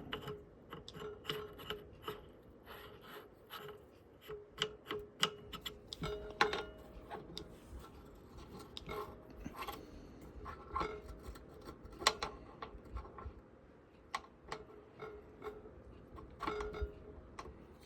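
Irregular small clicks and taps of a drill bit sharpener's parts being handled and fitted together, a few of them ringing briefly.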